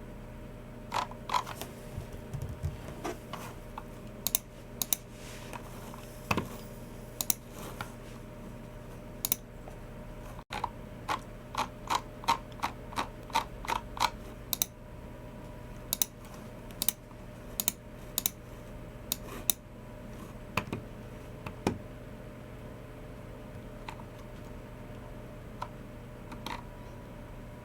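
Typing on a Logitech MX Keys Mini's low-profile scissor-switch keys: irregular keystroke clicks, with a quick run of keystrokes around the middle and only scattered ones near the end, over a faint steady hum.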